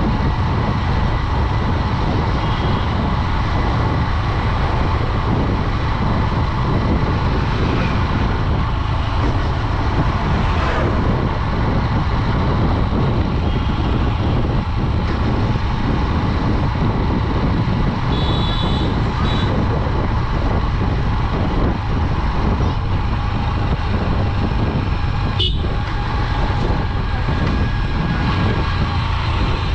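Steady ride noise from a Honda Dream 110 110cc commuter motorcycle on the road, with passing traffic. Vehicle horns toot briefly a few times, most clearly a little past the middle.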